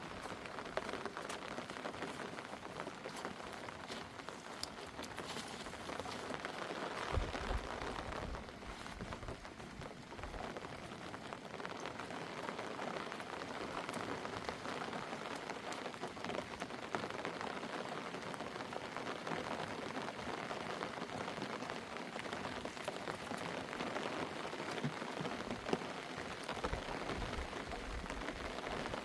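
Steady spring rain falling, an even patter of many drops.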